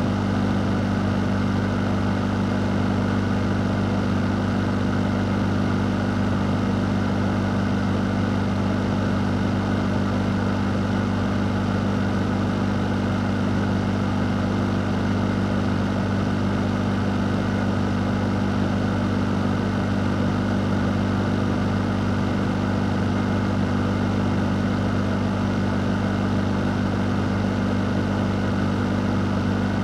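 An electric fan running steadily: a constant low motor hum under an even rush of moving air, unchanging throughout.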